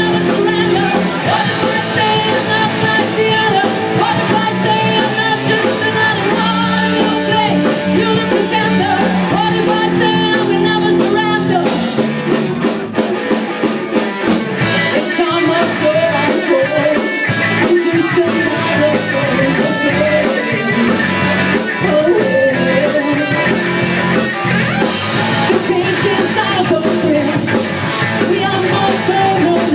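Rock band playing live, with guitar and a singer. The arrangement changes about twelve seconds in.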